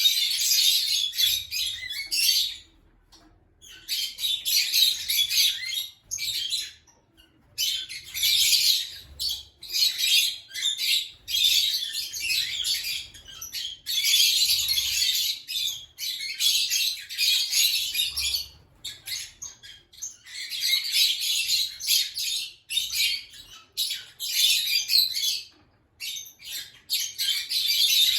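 Lovebirds chattering and squawking in shrill spells of one to three seconds, broken by short pauses.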